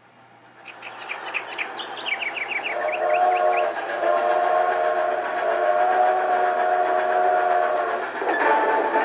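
Steam train sound effect: a hiss of steam builds up, a quick run of short falling chirps follows, and then a train whistle blows one long steady chord. The chord changes near the end.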